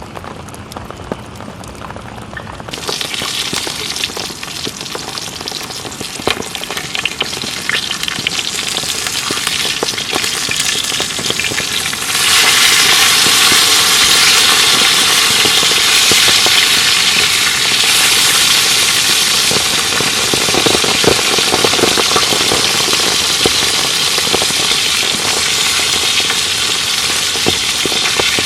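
Beef ribs frying in a hot pan, a loud, dense sizzle with scattered crackles. It starts abruptly about three seconds in and gets suddenly louder about twelve seconds in.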